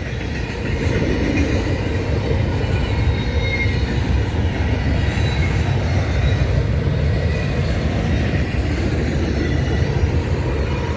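Canadian Pacific freight train rolling past close by: a steady, loud rumble of steel wheels on rail.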